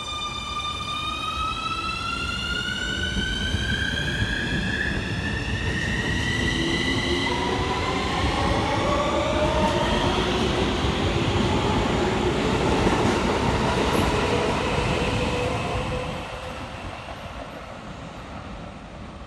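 Keikyu 1000 series train's Siemens IGBT-VVVF inverter, the so-called screaming inverter, whining with a stack of tones that rise steadily in pitch as the train accelerates away from the station. A second, lower set of rising tones follows, with wheel and running noise. The sound grows louder, then drops away sharply about sixteen seconds in.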